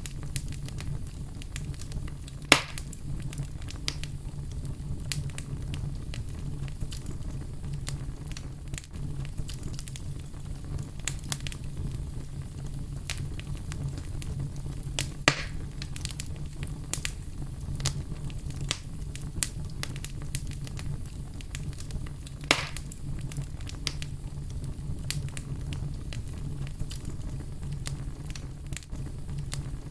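Fire crackling, with a steady low rumble and many small snaps. Three louder pops stand out: a few seconds in, about halfway, and about three-quarters of the way through.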